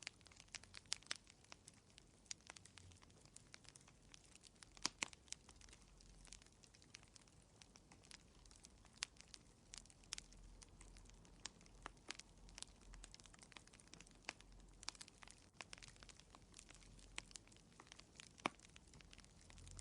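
Fire crackling softly in a fireplace: irregular small pops and snaps over a faint low rumble.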